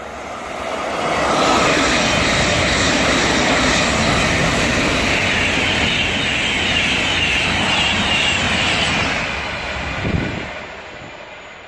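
An InterCity 225 electric express with red-and-white Mk4 coaches passes non-stop at speed: a loud rush of wheels on rail and air builds quickly, holds for about eight seconds, then fades as the train goes away.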